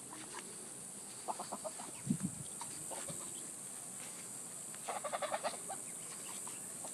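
Backyard domestic ducks and geese making soft, short calls: a few scattered notes, then a quick run of them about five seconds in.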